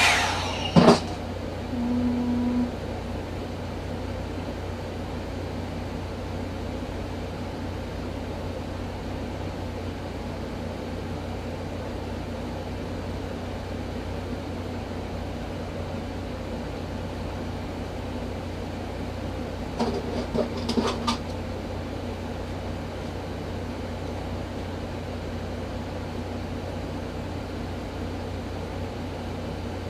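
Revlon One-Step hair dryer brush running steadily. After a click about a second in it settles to a lower, even hum, with a few faint clicks of handling around two-thirds of the way through.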